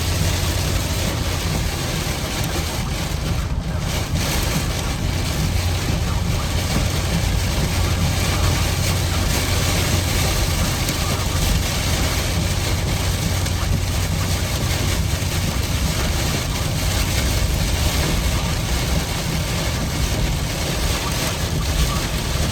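Steady road and engine noise inside a moving car's cabin: a constant low rumble with an even hiss over it.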